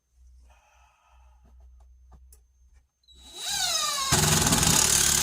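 Faint knocks, then about three seconds in a power drill starts up and runs loudly and steadily, driving a screw into the wood blocking.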